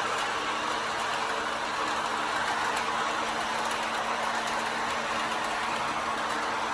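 Lionel O gauge electric toy train running steadily around its track: an even whir of the motor and wheels on the rails with a steady low hum and faint light clicks.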